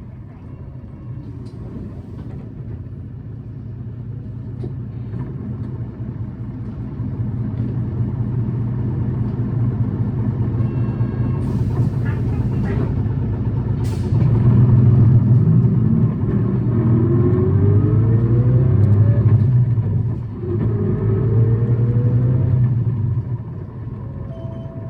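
Tokyu Bus H854's diesel engine heard from inside the bus, revving high. A short hiss comes about eleven seconds in; then the engine pitch rises as the bus accelerates, drops briefly about twenty seconds in, rises again, and eases off near the end.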